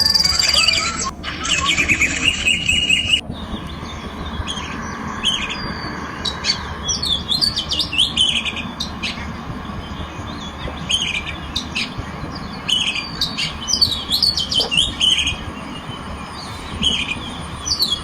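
Several birds chirping and calling in quick, sliding notes, scattered throughout over a low steady background noise.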